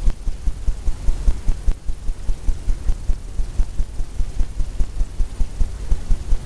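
A brush dabbing against the stretched canvas in quick, even, low thumps, about four a second.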